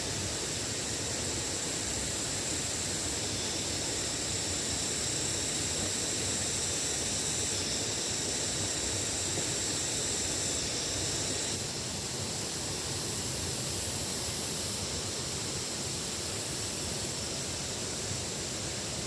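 Steady rushing noise of flowing water, with a high steady hiss above it; the sound steps down slightly about twelve seconds in.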